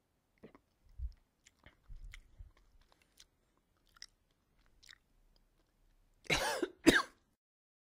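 A person chewing a piece of Cariolokia Scorpion chili pepper, with soft wet clicks and crunches, then coughing twice loudly about six seconds in.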